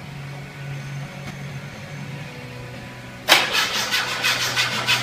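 Engine of a tuned Citroën 2CV firing up about three seconds in. It catches suddenly and runs with a deep, rapid exhaust beat from its twin chrome exhaust pipes.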